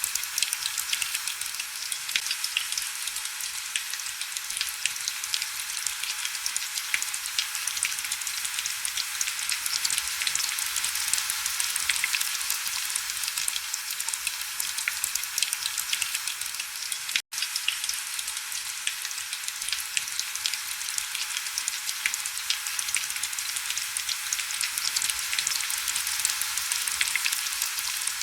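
Steady heavy rain: a dense hiss of countless fine drop ticks, with almost no low rumble. It cuts out for an instant about seventeen seconds in.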